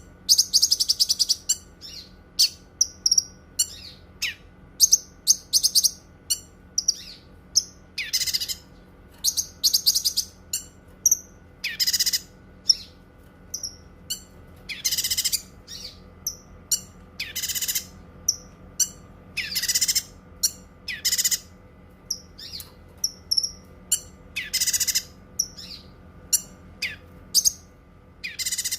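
Cucak kinoi singing: short, high-pitched chirps and quick trills, repeated every second or two.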